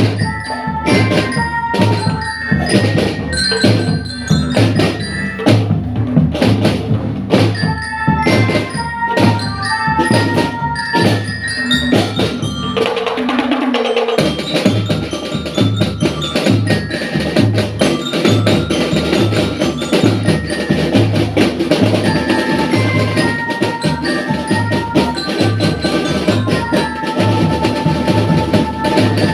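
A school marching drum band playing: drums beat a steady rhythm while bell-lyras (marching glockenspiels) play a melody of short high notes. The pattern changes about thirteen seconds in, then the drumming carries on.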